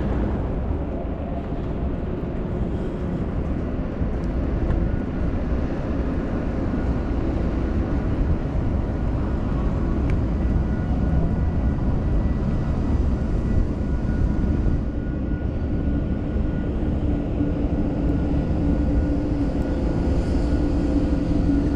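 Steady low rumble of wind and motion noise on the microphone while riding an e-bike, with faint steady whines above it.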